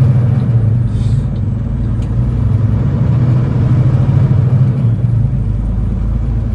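Semi-truck's diesel engine running steadily with a low drone, heard from inside the cab during a wide turn. A brief faint hiss comes about a second in.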